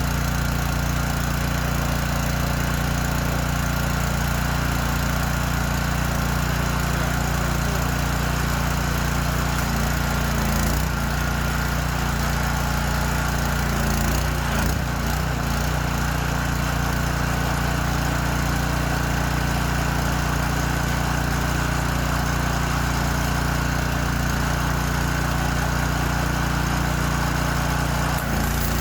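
Honda GX200 single-cylinder engine of a Simpson PS3228-S gas pressure washer running steadily with the choke off, shortly after a cold start.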